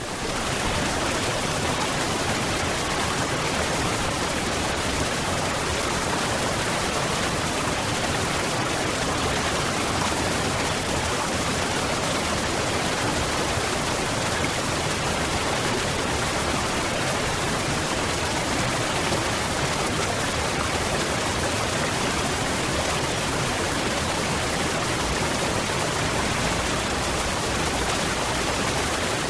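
Waterfall: water falling in a steady, unbroken rush spread evenly from low to high pitches.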